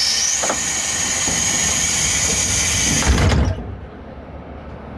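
Train departure sounds of a diesel sightseeing train at the platform: a loud, steady hiss with a high whistling tone. It cuts off sharply about three and a half seconds in, just after a short low rumble.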